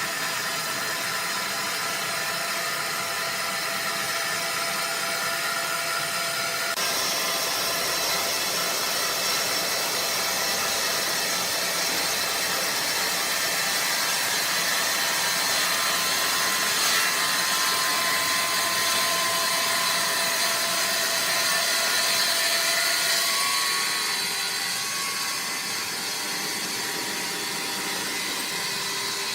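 Sawmill machinery running steadily, a mix of saw and conveyor noise with several steady whines that shift about a quarter of the way in and ease off near the end.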